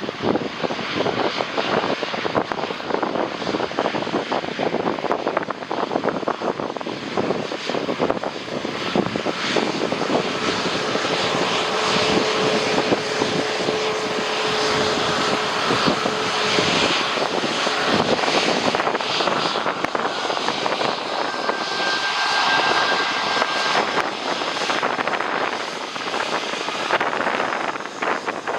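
Jet airliner passing overhead on approach to land, its engine noise swelling through the middle with a faint steady whine, while gusty wind buffets the microphone.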